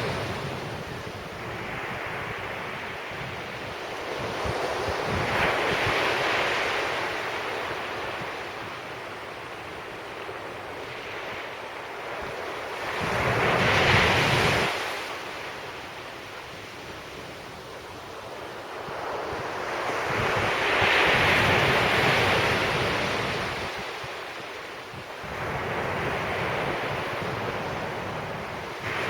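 Sea waves breaking on the beach, surging in and washing back every several seconds, the loudest break about halfway through. Wind buffets the microphone.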